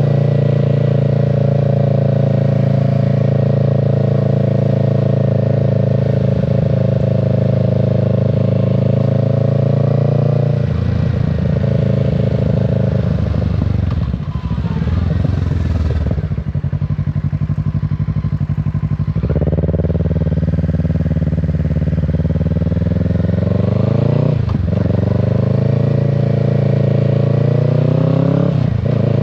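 Kawasaki Z650's parallel-twin engine and exhaust running under a rider: steady cruising, then rolling off to a low, slow note about a third of the way in. It then pulls away with the pitch climbing, with a quick upshift about two-thirds of the way in and another just before the end.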